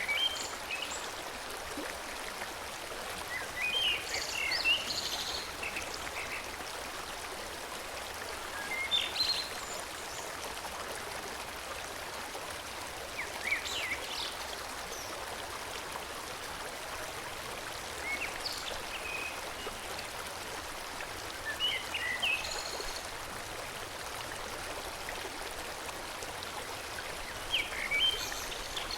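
Forest stream flowing steadily, with a bird singing short chirpy phrases over it every four or five seconds.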